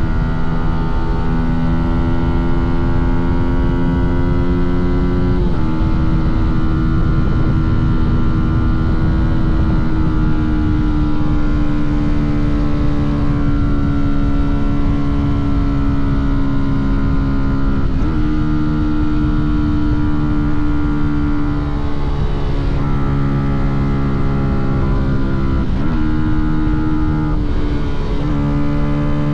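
Fantic Caballero 125's single-cylinder four-stroke engine and exhaust running under way, heard from on the bike. The engine note drifts slowly and breaks and shifts in pitch several times, about 5, 18, 26 and 28 seconds in.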